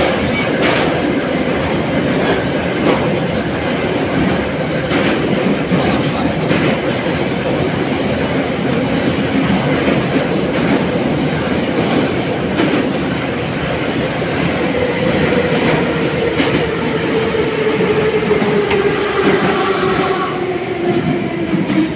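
81-717 metro car running, heard from inside the car: a dense rumble of wheels on rail with short clicks. From about two thirds of the way in, a motor whine falls steadily in pitch as the train slows.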